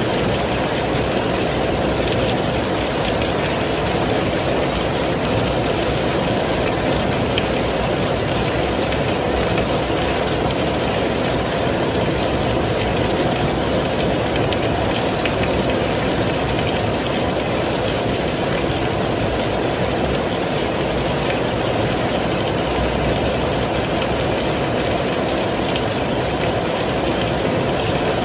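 Heavy rain falling steadily: a dense, even hiss with most of its weight low down, and faint scattered drop ticks above it.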